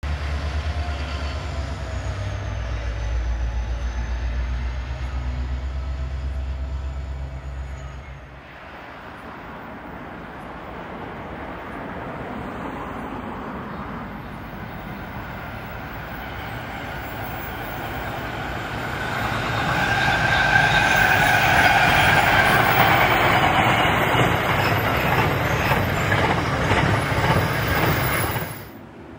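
A QUBE diesel locomotive running, with a loud, steady low engine sound. About eight seconds in this cuts to an Aurizon freight train led by locomotives CF4424, ACD6052 and GL105, which grows louder as it approaches. From about 20 s its container wagons pass with wheel squeal and rail noise.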